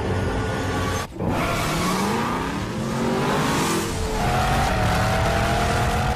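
Mercedes-Benz SLS AMG's 6.2-litre V8 accelerating hard in a road tunnel: after a brief break about a second in, the engine note climbs steadily in pitch, then holds a higher, steadier note near the end.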